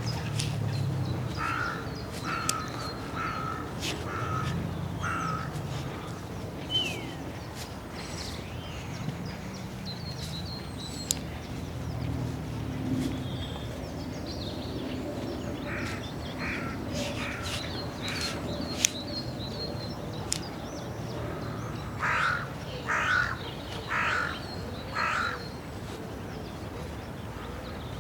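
A crow cawing in short runs of harsh calls: about six in the first few seconds, a fainter run midway, and four louder caws near the end. A steady low background rumble runs underneath.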